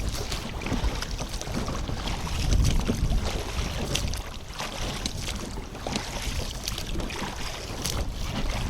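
Wind buffeting the microphone over water lapping against a small boat, with a few light knocks and clicks.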